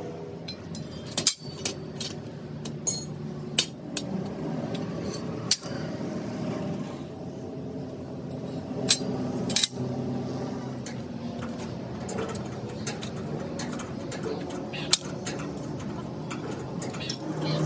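Irregular sharp metallic clinks and taps of hand tools striking metal, about a dozen over the stretch, over a steady low hum.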